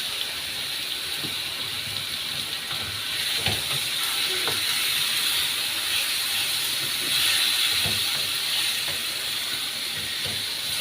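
Chicken pieces frying in a pan with sautéed garlic and onion: a steady sizzling hiss that grows louder midway, with a few soft knocks.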